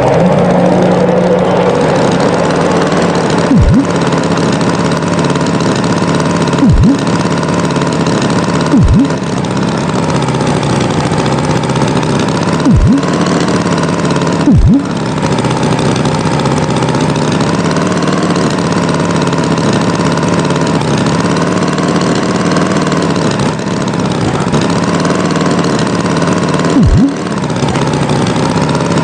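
Cartoon tractor engine running steadily, with a heavy low thud at uneven intervals, about six times.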